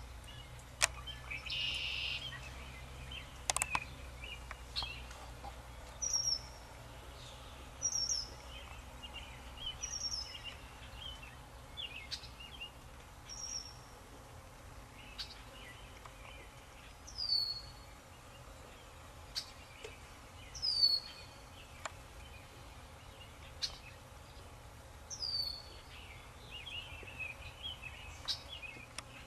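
Birds singing: one bird repeats a short, high, down-slurred note about every two seconds, with softer chirps from other birds in between.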